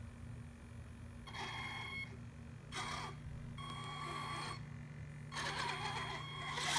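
Kyosho Blizzard SR RC snow tank's electric drive motors whirring in four short bursts, with a light whine, as the tracks are run from the app.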